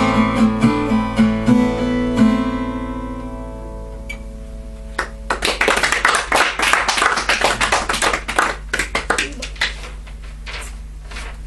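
Acoustic guitar playing the last strummed chords of a song, the final chord ringing out and dying away; about five seconds in, the audience applauds for around five seconds, then the applause fades.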